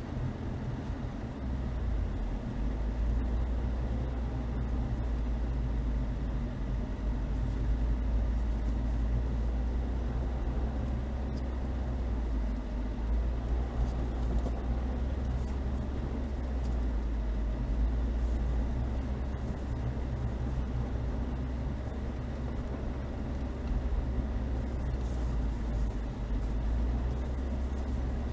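Chevrolet Niva driving slowly over a rough snowy track: a steady low engine and drivetrain drone, with scattered faint clicks and knocks that come more often near the end.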